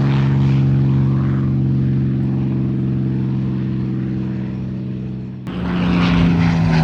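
P-51D Mustang's Rolls-Royce Merlin V-12 engine at high power on a display pass, a steady deep propeller-engine drone that fades slightly. About five and a half seconds in it jumps abruptly to a louder, slightly different-pitched engine sound.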